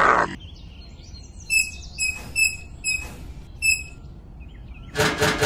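A small bird chirping: a run of short, high chirps about a third of a second apart. About five seconds in comes a louder, noisy burst.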